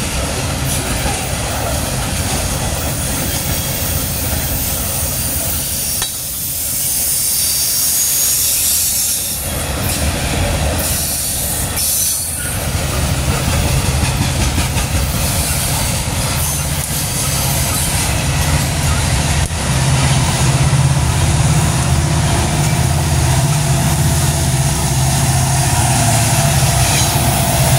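Freight train of coal hopper cars rolling past at close range, a steady noise of steel wheels on rail. From about halfway the low drone of the rear distributed-power diesel locomotives, BNSF SD70ACEs, grows louder as they come up and pass near the end.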